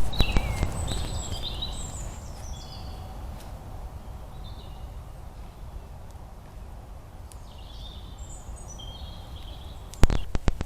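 A small songbird singing in quick, high, twittering phrases, in two bouts, over a low outdoor rumble. A loud sharp knock comes right at the start, and a quick run of sharp clicks near the end.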